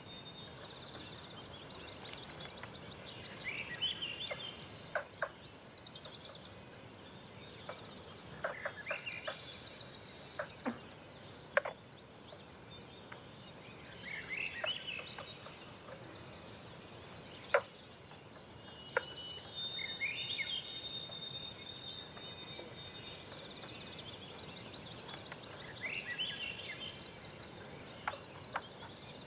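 Dawn birdsong: songbirds repeat short songs every few seconds, each a quick falling phrase followed by a rapid high trill, with one long held whistle about two-thirds of the way through. Scattered sharp clicks sound over a faint steady background.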